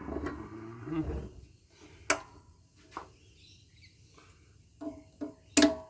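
Sharp metal clicks and knocks from hand tools working on a scrapped solar inverter's casing and parts. There are two single clicks about a second apart, then three quick ringing knocks near the end.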